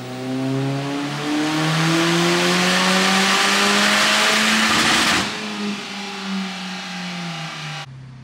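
Big-turbo 1.8T four-cylinder of a Mk4 VW Golf doing a full-load pull on a chassis dyno: revs climb steadily under wide-open throttle, then the throttle is shut about five seconds in and the engine winds down. The sound cuts off abruptly near the end.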